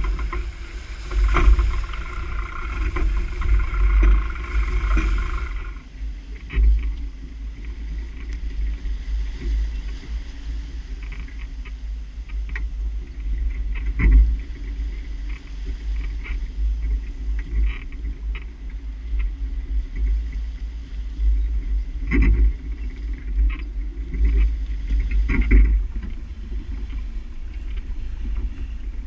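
Wind buffeting the microphone of a sailboat under way, over the rush and slap of water along the hull. A brighter rushing for the first several seconds drops away about six seconds in. A few separate knocks or slaps come later, the loudest about midway.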